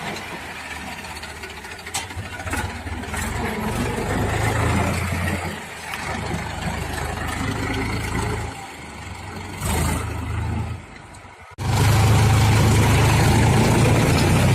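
HMT 4022 tractor's diesel engine running, rising and falling in loudness across a few spliced clips. About three-quarters through it fades, then cuts suddenly to a louder, steady run.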